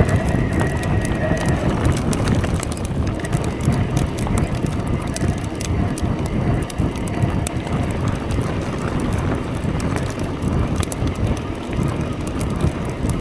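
Mountain bike riding over a wet, rocky trail: a continuous rumble of tyres and frame, with many clicks and rattles as the bike goes over rocks, and wind buffeting the microphone.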